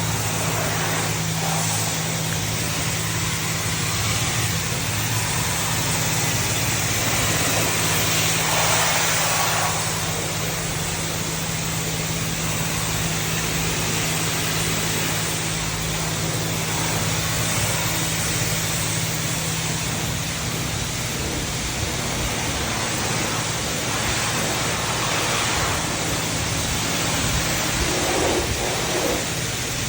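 High-pressure spray wand at a self-serve car wash spraying wax onto a car: a steady hiss of water over a constant low hum.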